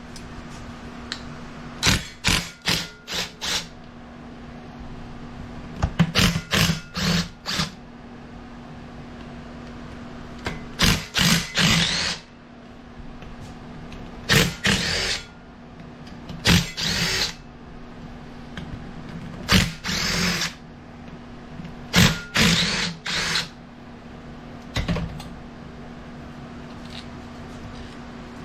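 Power drill run in short trigger bursts, three to five at a time, group after group every few seconds, while drilling out a bolt broken off inside a small OHV engine. A steady low hum runs underneath.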